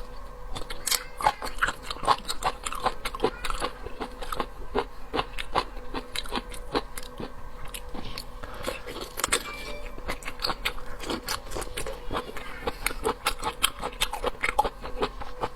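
Close-miked eating sounds: a person chewing and crunching seafood, with dense, irregular wet clicks and crackles throughout.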